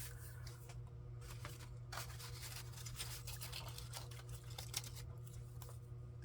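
Faint scratching, rubbing and light ticking of paper being handled and worked by hand, over a steady low hum.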